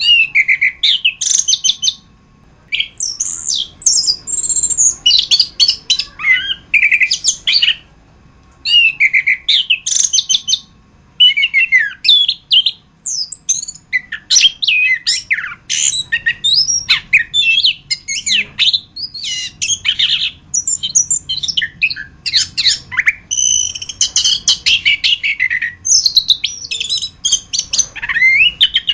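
Chestnut-capped thrush (anis kembang) singing a loud, fast, varied song of high whistled notes and rapid note runs. There are brief pauses about two, eight and eleven seconds in.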